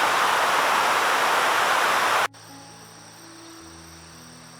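Rushing river water, a loud steady hiss that cuts off abruptly a little over two seconds in. After the cut, a much quieter bed of soft, held background-music notes.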